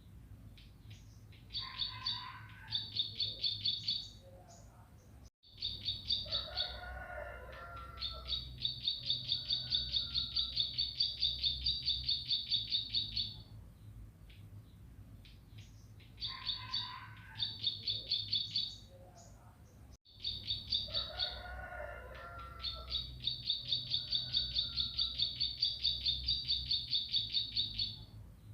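Ciblek (bar-winged prinia) song: long fast trains of high, sharp repeated notes, about four a second, with a few lower, rougher notes between them. The same stretch of song plays twice, as a looped recording.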